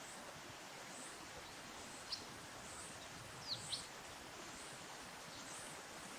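A few short, high, falling chirps from small birds, the loudest a pair about three and a half seconds in, over a steady outdoor background hiss.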